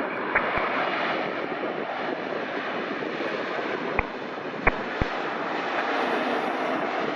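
Jet engines of a Boeing 777 freighter, a steady rushing noise. A few short sharp clicks break in, two in the first second and three between about four and five seconds in.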